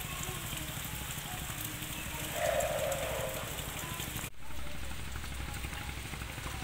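Steady rain falling, a dense hiss of small drops ticking. A brief louder sound stands out about two and a half seconds in. The sound drops out for an instant a little after four seconds in.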